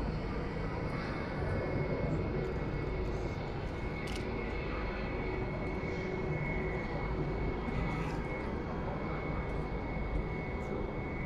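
Jet airliner engines running with a steady rumble, and a high steady whine that grows stronger about four seconds in.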